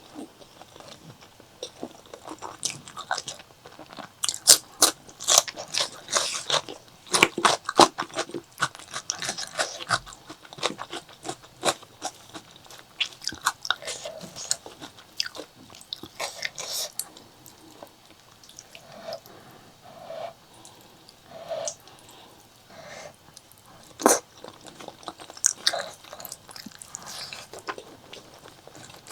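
Close-miked chewing and biting of spicy pork leg curry with rice: crunching bites and wet mouth clicks, thickest about four to ten seconds in, with a quieter stretch in the second half.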